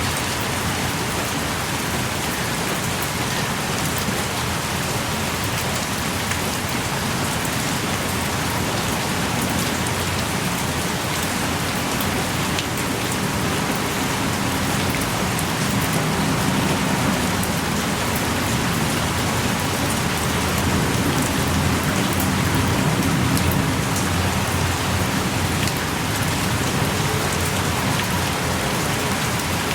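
Steady, heavy rain pouring on the forest, with individual drops pattering close by, heard from inside a small rock cave.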